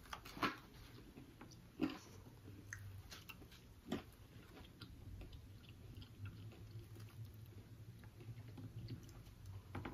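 Chewing and eating sounds: soft mouth noises and small clicks as fried food is eaten, with a few sharper clicks about half a second, two seconds and four seconds in. A faint low steady hum sits underneath.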